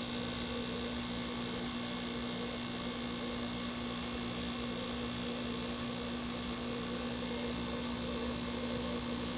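Window air conditioner running and cooling: a steady hum with one strong constant tone, from the compressor and fans, over an even rush of noise.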